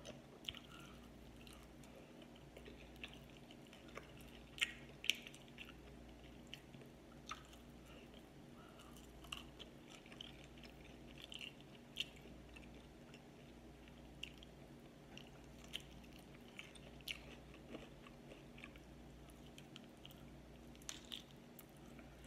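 Faint eating sounds: scattered mouth smacks and chewing as meat is bitten off fried chicken wings, over a low steady hum.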